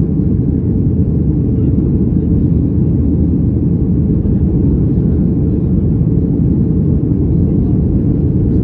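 Steady, loud rumble of a Boeing 737's engines and airflow heard from inside the passenger cabin, with no change in pitch or level.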